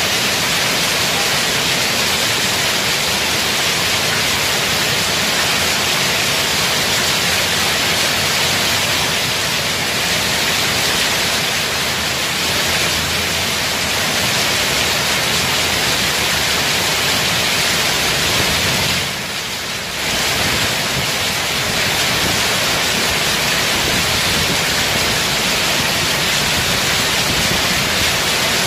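Heavy rain pouring down steadily, a dense even hiss, briefly quieter for about a second around two-thirds of the way through.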